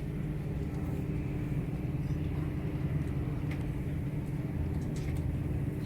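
Steady low rumble with a faint steady hum, the background of an airport heard from the terminal: idling aircraft and airport machinery.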